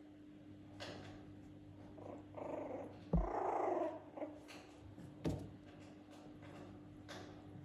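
Puppy making a short, rough sound about three seconds in, with a couple of thumps and scattered light clicks. A faint steady hum runs underneath.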